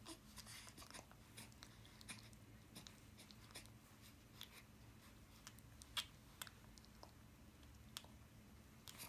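A cat grooming itself with its tongue: faint, irregular wet clicks and rasping licks.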